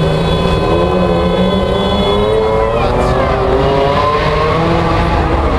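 Ferrari Enzo's V12 engine running at low revs as the car pulls away slowly, its note dipping a little about halfway and then climbing again.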